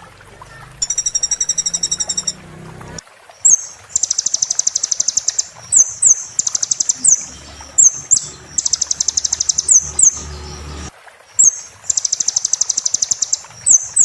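Sunbird (kolibri) song: sharp high whistled slurs alternating with fast, high buzzy trills about a second long, repeated in phrase after phrase. A shorter fast trill comes about a second in, before the main phrases start at around three and a half seconds.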